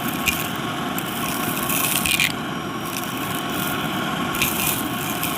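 Shark vacuum cleaner running with its crevice tool: a steady motor and airflow rush with a faint whine, with brief louder hissing rushes about two seconds in and again near the end as the nozzle works close to the surface.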